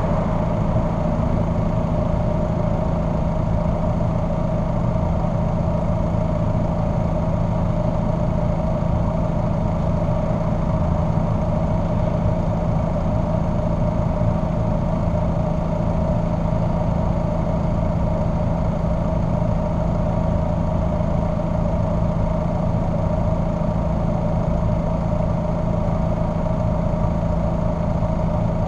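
Car engine idling steadily, a constant hum that holds the same pitch with no revving.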